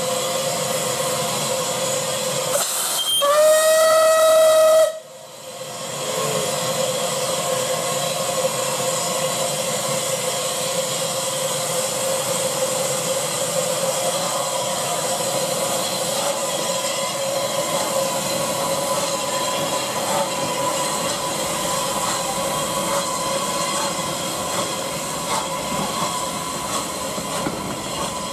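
Steam locomotive whistle blown once for about two seconds, the loudest sound here, over a steady hiss of escaping steam that carries on before and after it.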